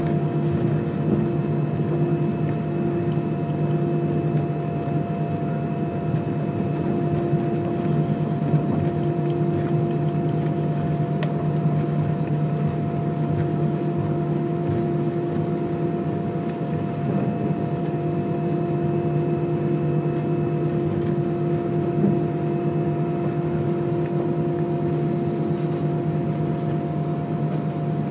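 Steady hum inside an Airbus A320 cabin, its engines at low power before the takeoff roll, with several steady tones over the rush of cabin air and no rise in power.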